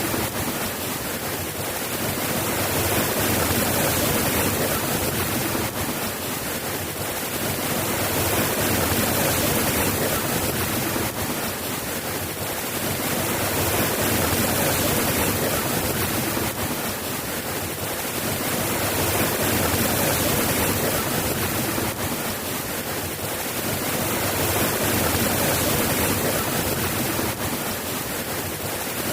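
Steady rain, an even hiss that swells and eases gently every few seconds.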